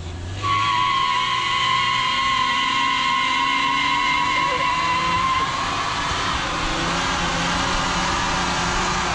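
Nissan R31 Skyline spinning its tyres in a skid: a loud, steady, high-pitched tyre squeal sets in about half a second in over the revving engine, and turns rougher and noisier about five and a half seconds in.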